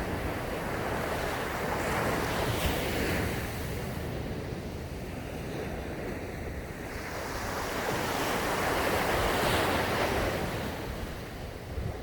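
Ocean waves breaking on a sandy beach, the surf swelling twice, a little after the start and again near the end, with a low rumble and some wind on the microphone.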